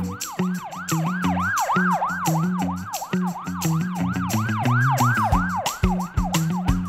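Cartoon emergency-vehicle siren sound effect: a fast wailing siren sweeping up and down about two to three times a second, over children's backing music with a bass line and a steady drum beat.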